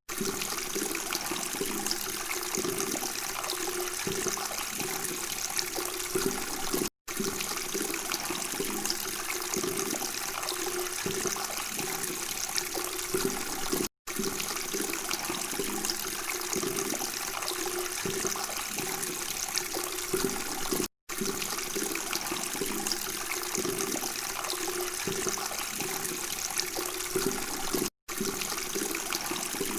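Water running and babbling steadily, with a bubbling, trickling texture; the sound drops out for an instant about every seven seconds, as a loop restarts.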